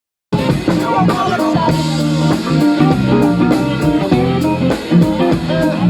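A band playing a song's instrumental intro, guitar over bass and drums, starting abruptly about a third of a second in.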